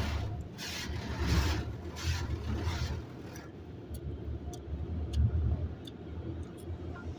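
Automatic car wash machinery working over a car: a steady low rumble with several swishing swells of noise in the first three seconds, typical of brushes or spray sweeping the body. After that it goes quieter, with a few faint ticks.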